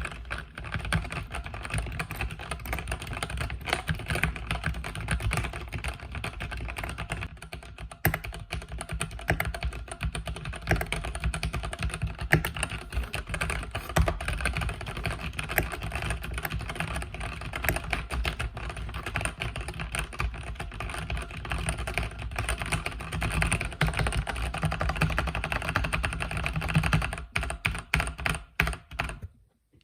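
Mechanical keyboard with red linear switches being typed on steadily, giving a fast, continuous run of key clicks and clacks. The typing stops briefly just before the end.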